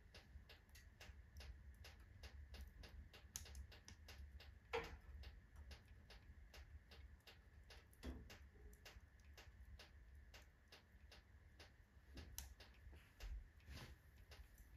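Wood fire in a fireplace crackling softly: a quick, uneven run of faint snaps, with a couple of louder pops.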